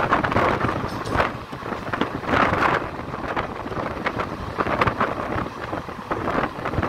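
Running noise of a moving passenger train heard from on board: a steady rush with wind buffeting the microphone and irregular clatter of wheels over the rails.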